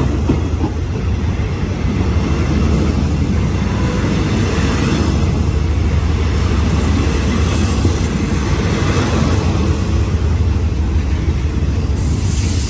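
Diesel-hauled passenger train rumbling steadily at the station, a continuous low mechanical rumble with no horn.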